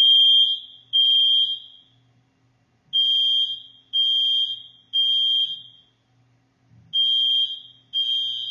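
Smoke alarm sounding its fire alarm: loud high-pitched beeps in groups of three with a short pause between groups. This is the temporal-three pattern, which means there is fire or smoke and everyone must get out fast.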